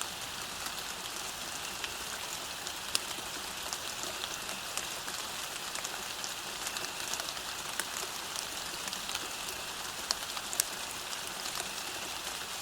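Steady rain falling on the ground, an even hiss with many separate drops ticking sharply through it.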